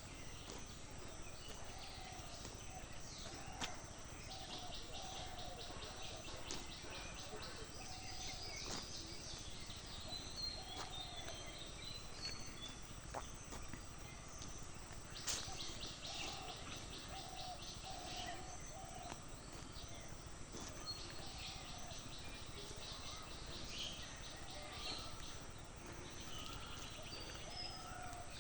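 Faint countryside ambience: birds chirping and calling over and over, with fast, high-pitched insect-like trills and a steady background hiss. A couple of sharp clicks stand out, the strongest about halfway through.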